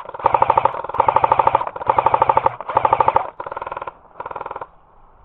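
Airsoft gun firing on full auto in about six rapid bursts, each a fast even rattle of shots. The last two bursts are quieter.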